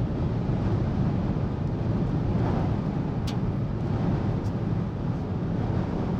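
Steady low rumbling noise inside a storm-chasing vehicle, with a faint click about three seconds in.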